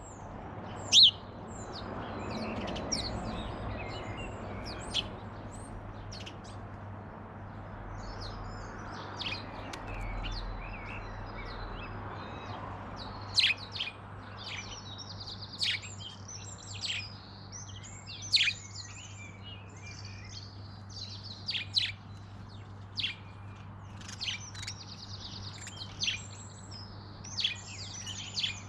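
Garden birds chirping and singing: many short high calls and trills in quick succession, with a loud sharp call about a second in, over a steady low hum.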